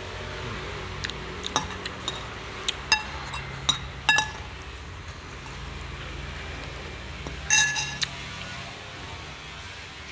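A spoon clinking and scraping against a glass dish in a string of short ringing strikes, the loudest about four and seven and a half seconds in, as the last of the shredded fruit salad is scooped up.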